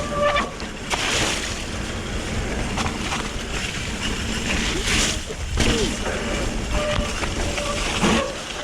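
Electric mountain bike ridden fast along a soaked, muddy trail: wind buffeting the microphone over the rumble of tyres rolling through mud, with repeated splashes through standing water.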